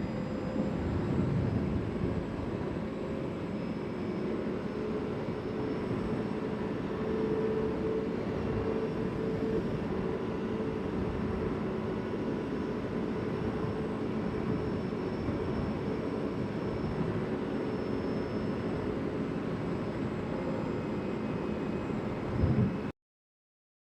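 CFMoto CForce 800 ATV's V-twin engine running steadily while riding. A brief louder knock comes near the end, then the sound cuts out abruptly in the last second.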